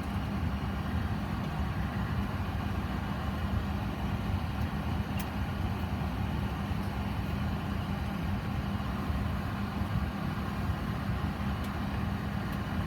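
Steady drone inside a Boeing 737 cockpit before engine start: the APU running and supplying bleed air to the air-conditioning packs. A constant low hum with one steady tone.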